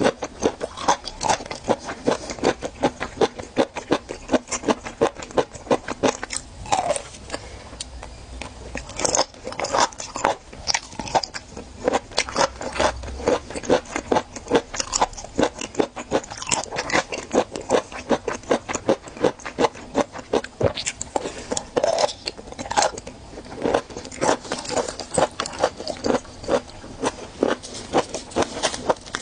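Close-miked chewing of raw geoduck, crisp crunching bites at about three a second with wet mouth sounds in between.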